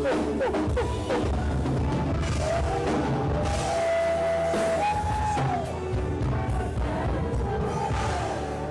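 Church worship band music with drums and a steady bass line, with a few long held notes partway through.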